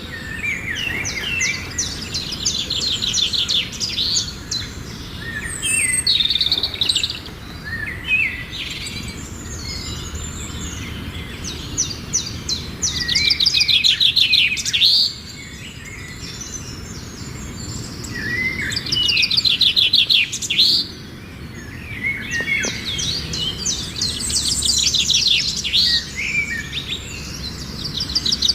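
Songbirds singing: repeated phrases of fast, buzzy trills and short chirps, coming back in loud bursts several times.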